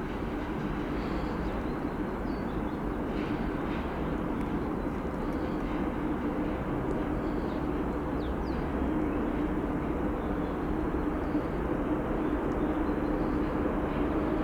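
Freight train on the line with a VL80S electric locomotive: a steady rumble with a droning hum that grows gradually louder toward the end.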